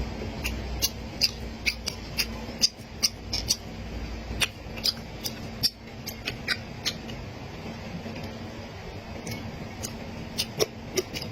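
Close-up eating sounds: a person chewing, with quick wet mouth clicks and smacks, several a second at first, thinning out in the middle and picking up again near the end.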